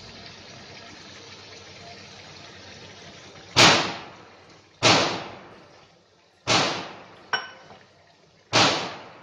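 Sel roti deep-frying in a pan of oil with a steady sizzle. About three and a half seconds in come four loud sudden noises, each trailing off over about a second, with a small clink between the third and fourth.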